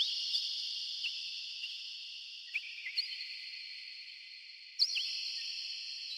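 Steady high-pitched insect chorus with scattered short, sharp bird chirps that sweep downward, the loudest chirp about five seconds in.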